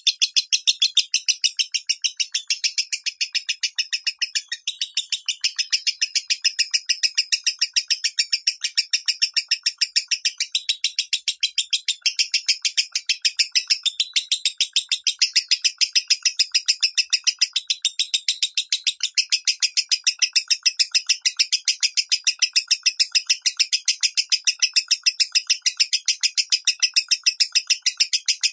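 Lovebird singing in the high, thin 'minor' voice: a long unbroken run of rapid, evenly paced chirps, about three or four a second.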